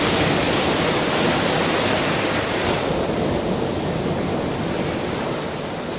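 Ocean surf: a wave breaking and washing up, its hiss strong for the first three seconds and then easing off as it recedes.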